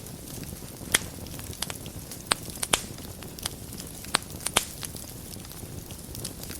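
Fire burning in a fireplace: a steady low rumble of flames with sharp crackles and pops at irregular moments, several louder snaps scattered through.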